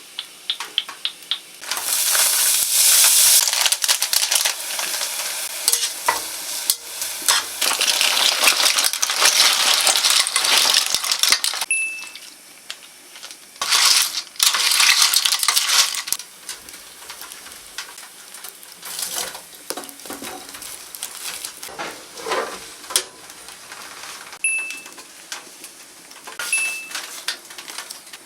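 A clam-steam meal kit with its broth cooking in a pan, sizzling loudly for about ten seconds and again briefly a little later. After that come quieter clinks and scrapes of utensils against the pan.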